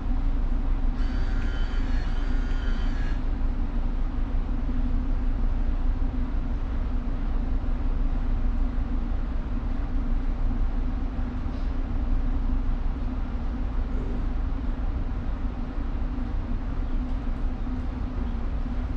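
Steady low rumble of a tanker's machinery with a constant hum. About a second in, a brief pitched sound with several tones lasts about two seconds.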